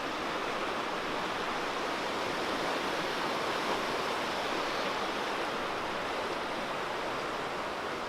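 Steady, unbroken rushing of water outdoors.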